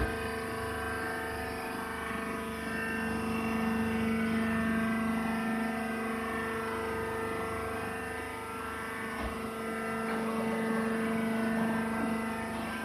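A machine running steadily, a constant hum with a whine at a fixed pitch.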